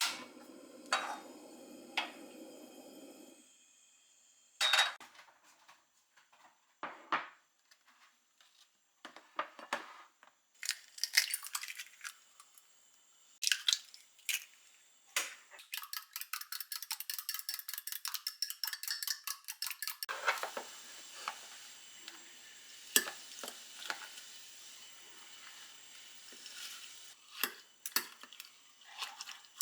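Kitchen utensils and dishes clinking and knocking during cooking, with a few seconds of quick rapid clicking about halfway through.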